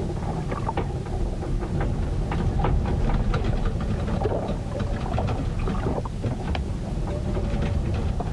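Storm weather recorded aboard a ship: a steady low rumble of wind and water, with many scattered small ticks and knocks, like raindrops and the boat's fittings.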